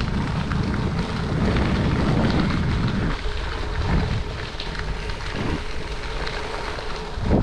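Steady rumble of wind on the microphone and bicycle tyres rolling along the trail during a ride, heaviest in the low end, easing slightly about three seconds in.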